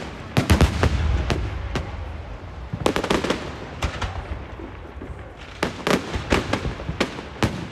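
Fireworks going off: many sharp bangs in quick clusters, one group near the start, another about three seconds in and a rapid run in the last couple of seconds.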